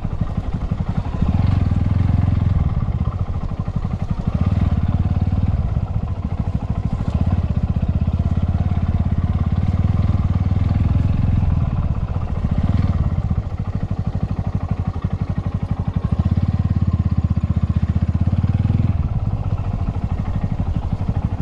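Motorcycle engine running at low speed, its deep pulsing note rising and easing every few seconds as the throttle is opened and closed.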